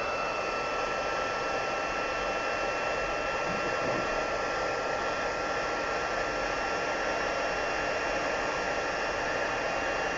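Embossing heat gun blowing steadily, a constant rush of air with a steady motor whine, melting embossing powder on a card front.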